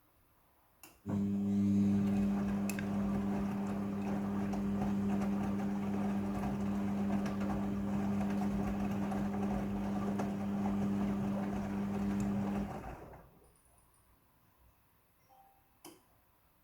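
Midea front-loading washing machine starting with a click, then running with a steady hum over a hiss for about twelve seconds before stopping; another faint click near the end.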